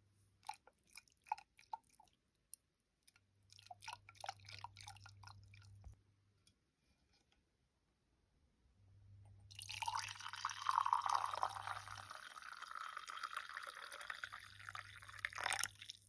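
Liquid poured steadily for about six seconds in coffee brewing, stopping abruptly near the end. It is preceded by scattered light clicks and taps.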